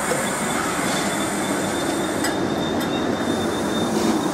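Greater Anglia Mark 3 passenger coaches rolling past, their wheels running steadily on the rails, with a thin high wheel squeal from about a second in until near the end and a couple of short clicks in the middle.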